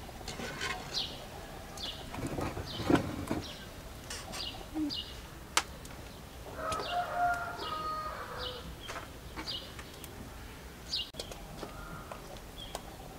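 Small birds chirping: short, high chirps that drop in pitch, repeating every half second to a second. A few sharp clicks or knocks sound among them, the sharpest about five and a half seconds in.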